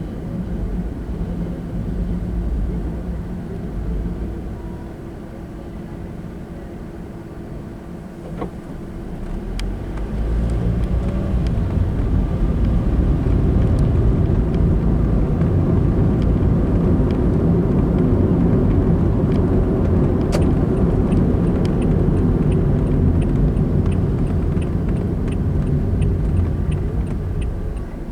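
Car running, with road and engine rumble heard from inside the cabin, getting louder about ten seconds in as the car picks up speed. From about twenty seconds in, a turn-signal indicator ticks evenly.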